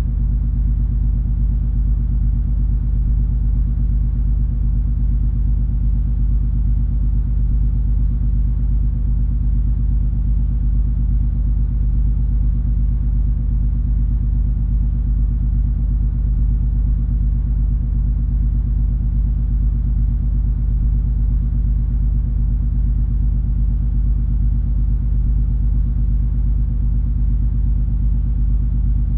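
Steady low drone of the cruise ferry MS Color Magic under way: a constant engine and machinery rumble with a few unchanging low hums in it.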